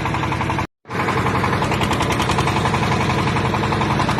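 A backhoe's engine running steadily with a fast, even knocking pulse. The sound cuts out completely for a split second just under a second in, then resumes unchanged.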